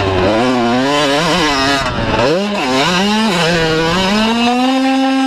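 125cc two-stroke motocross bike ridden hard, the engine note rising and falling several times as the rider works the throttle, then climbing and holding a high steady rev near the end.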